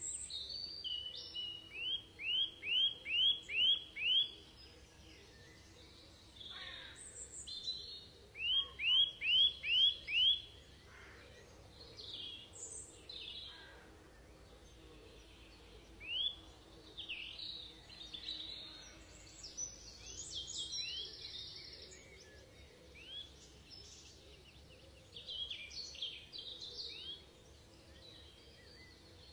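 Forest birds singing: a run of about six quick rising whistled notes, repeated once a few seconds later, then scattered chirps and short calls.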